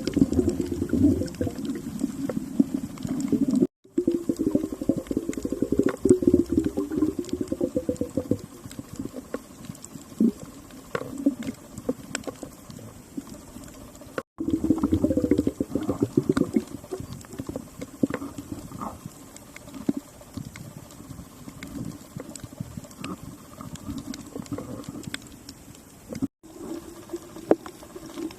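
Bubbling and gurgling heard underwater, typical of a diver's exhaled air bubbles. It surges in bursts a few seconds long, strongest in the first eight seconds and again around 15 seconds in. Brief dead gaps where the audio cuts out come about 4, 14 and 26 seconds in.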